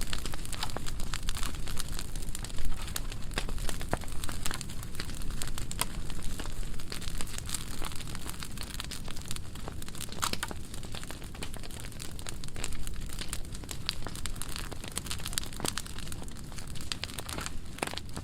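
Burn pile of dry pruning wood burning, crackling with a dense run of sharp pops over a steady low rumble; one louder pop comes about two and a half seconds in.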